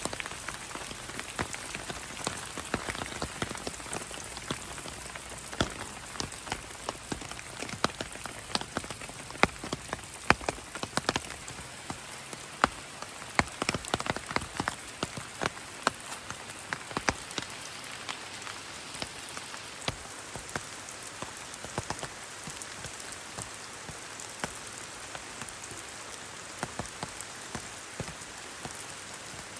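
Steady rain falling, with many sharp individual drop hits, densest in the first half.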